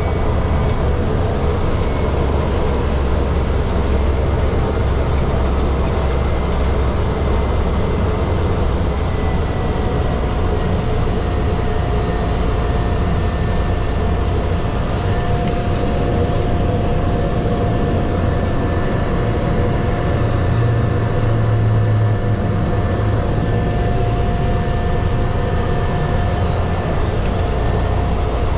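Airliner cabin noise heard from a passenger seat: a steady engine drone and rushing air with a thin, constant whine. The deep rumble eases slightly after several seconds.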